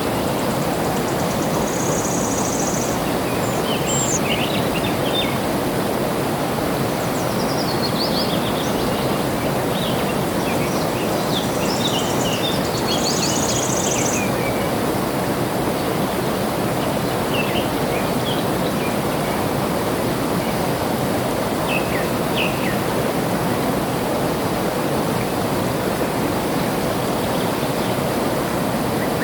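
Steady rush of flowing water with small birds chirping over it, the chirping busiest in the first half. Two short high buzzing trills stand out, one about two seconds in and one about thirteen seconds in.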